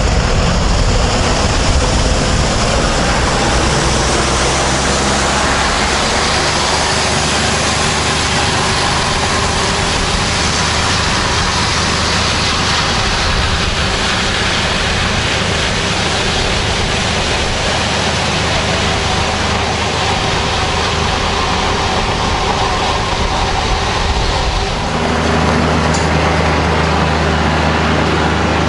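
Tractor diesel engine running steadily; its note shifts near the end.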